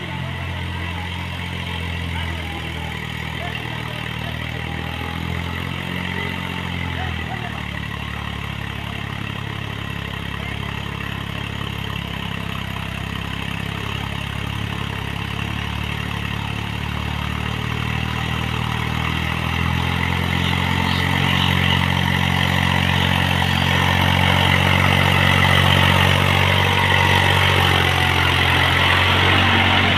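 Eicher tractor's diesel engine running steadily while working a field. Its note changes about seven seconds in, and it grows louder over the second half.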